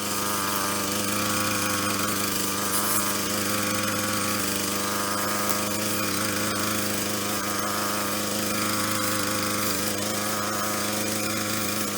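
Brush cutter's small engine running steadily at high speed, its pitch held even.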